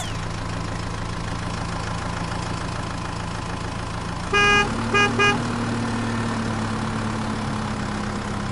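Truck engine running steadily, with the horn honking once long and then twice short a little past the middle, as the engine note rises slightly.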